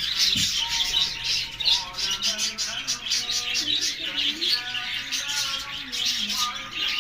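Budgerigars chattering with a dense stream of rapid, high chirps, over background music.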